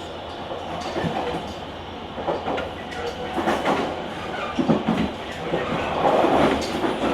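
Running noise of a JR Kyushu 883 series limited express electric train, heard from the vestibule deck of a GTO-inverter motor car: steady wheel and rail noise with irregular louder swells that build toward the end.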